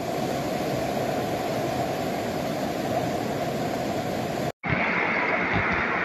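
Steady rushing of floodwater with no breaks. About four and a half seconds in it cuts off suddenly and starts again as a brighter, hissier rush.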